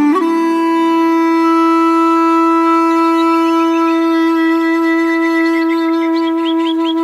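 Clarinet holding one long, steady note after a brief ornamented entry, playing Turkish art music. Birds chirp in the background from about three seconds in, more often toward the end.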